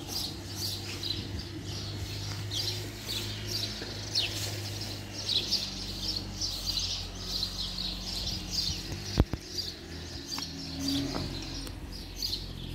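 Many small birds chirping continuously over a steady low hum, with one sharp click about nine seconds in.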